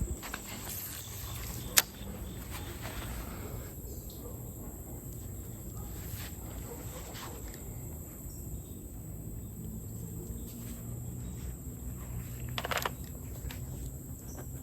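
Outdoor creek-side ambience: a steady high insect buzz over a low rumble. A sharp click comes about two seconds in, and a short rustle near the end.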